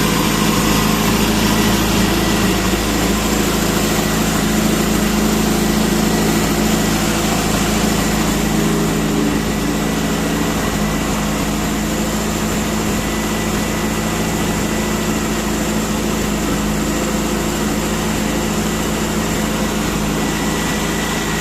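Subaru EJ20X 2.0-litre turbocharged flat-four engine idling steadily on a test stand.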